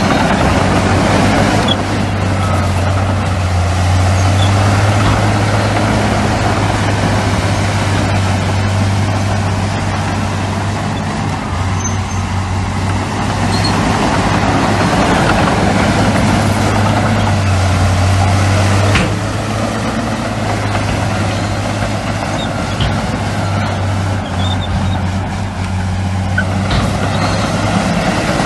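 Heavy diesel construction machinery, bulldozers and dump trucks, running steadily with a low engine drone, and a single sharp click a little past the middle.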